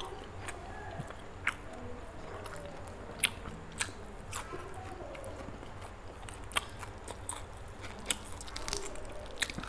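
Close-miked chewing and biting of roasted chicken leg meat: soft wet mastication with a sharp mouth click or smack every second or so.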